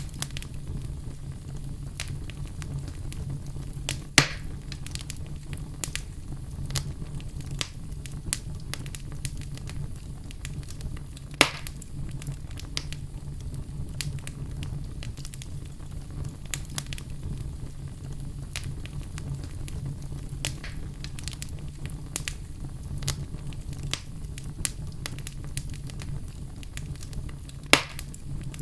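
Wood fire burning in a fireplace: a steady low rumble of flames with constant small crackles and three louder pops, about four seconds in, about eleven seconds in and near the end.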